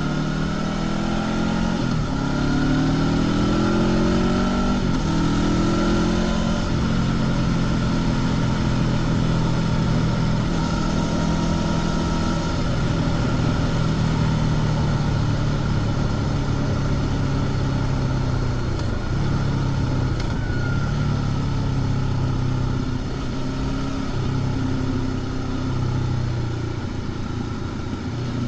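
Honda CB500X's parallel-twin engine through its stock exhaust under way. In the first six seconds or so it pulls up in pitch several times, each rise cut short as if by an upshift, then it holds a steady cruise. The pitch drops briefly past the middle as the bike eases off. Wind and road noise run underneath throughout.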